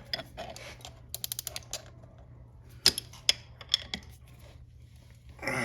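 Light metallic clicks and taps of a chain press tool and hand tools being handled on a motorcycle drive chain: a quick run of small ticks about a second in, then a few single, sharper clicks around three to four seconds.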